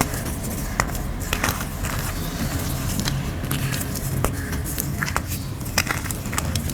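Chunks of grey gym chalk being crumbled, giving irregular sharp crackles and snaps, a few a second, over a steady low rumble.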